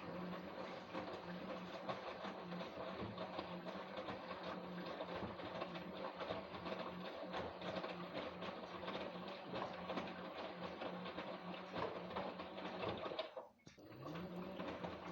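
LG WD-1054FB front-loading washing machine in its second rinse: the drum motor hums steadily as the drum turns the wet laundry, with a busy sloshing clatter over it. About thirteen seconds in the drum stops briefly, then starts again with the hum rising back up.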